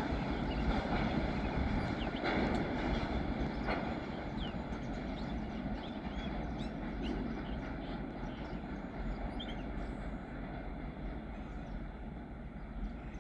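Goods train moving away down the line, its low rumble of wheels on rails slowly fading. A few faint high chirps sound now and then.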